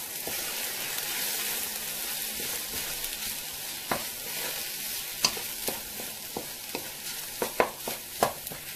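Fried rice and vegetables sizzling in a hot wok while being stirred and turned with a wooden spoon. The spoon knocks and scrapes against the pan several times, most often near the end.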